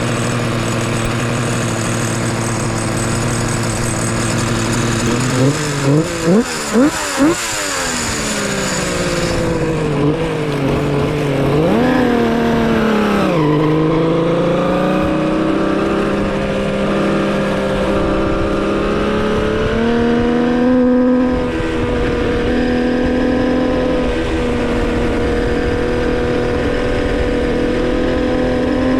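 Homemade three-cylinder two-stroke motorcycle engine running during its break-in. About six seconds in it is revved four times in quick succession; near twelve seconds the revs rise and drop again, then it holds a steady engine speed with slow changes in pitch.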